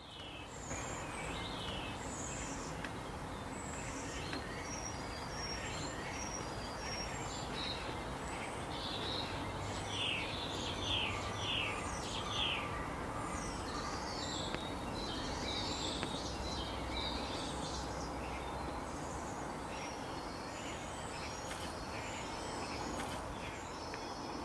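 Wild birds chirping and calling over a steady outdoor background hiss, with a quick run of about five short notes around the middle.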